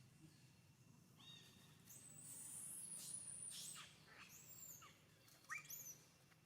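A series of high-pitched animal calls: a short squeaky call about a second in, a long high thin call from about two to four seconds, another brief call after it, and a pair of quick rising squeaks near the end.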